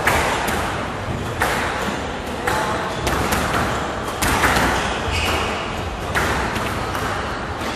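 Squash rally: the ball struck by rackets and hitting the court walls in sharp knocks, irregularly about every half second to a second.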